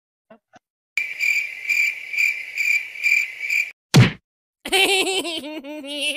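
Dubbed-in comedy sound effects: a high, pulsing electronic tone beating about twice a second, then a single sharp whack, then a warbling, wavering pitched effect.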